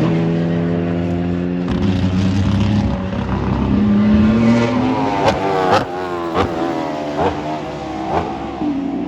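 Racing car engine at a circuit. It runs steadily for the first few seconds, then gives a series of quick revs that rise and fall, with five sharp cracks about half a second to a second apart.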